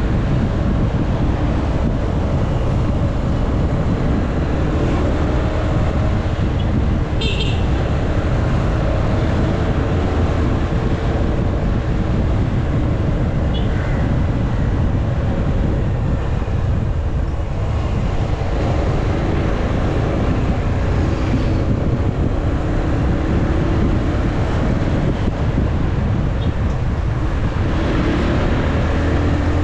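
Motorcycle riding at road speed, heard from an action camera on the bike: a steady low rush of wind and road noise over the engine's running hum, with a brief high chirp about seven seconds in.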